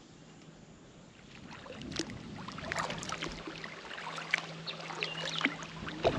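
Kayak paddle strokes splashing and dripping water, with small knocks, starting about a second and a half in and getting louder. A faint steady low hum runs beneath.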